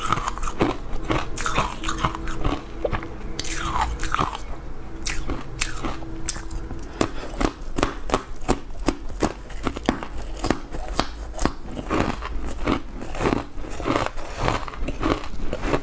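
Crunchy bites and chewing of a green, powder-coated stick, close to the microphone: a few scattered crunches at first, then many sharp crunches in quick succession.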